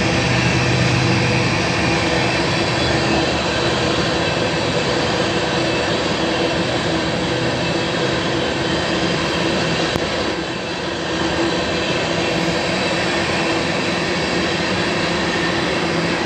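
BNSF ethanol tank cars rolling past at speed: a continuous noise of steel wheels on rail, with a few steady tones running underneath. It dips briefly about ten seconds in.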